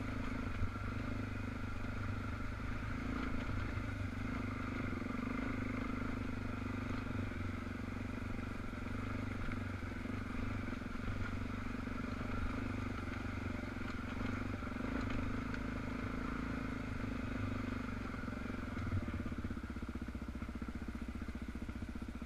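Dual-sport motorcycle engine running at a fairly steady speed on a trail ride, with a few light knocks and clatter. Near the end the engine note drops lower and evens out as the bike slows.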